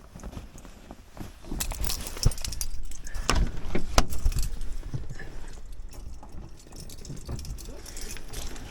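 Irregular clicks, knocks and rattling, with one sharp crack about four seconds in, then quieter scattered knocks.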